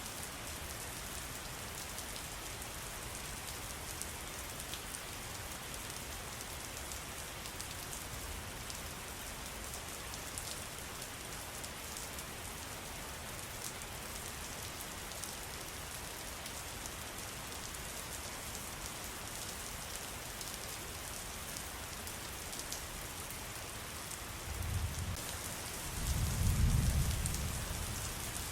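Steady trickling and splashing water with fine droplets pattering. Near the end come two deep low rumbles, the second longer and louder.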